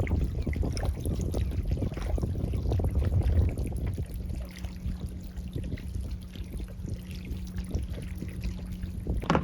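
Wind rumbling on the microphone with water sloshing and splashing, uneven and gusty.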